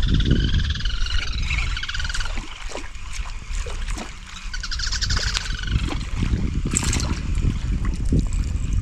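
A bird singing rapid trilled phrases, one at the start and another about five seconds in, over a steady low rumble, with scattered sharp clicks.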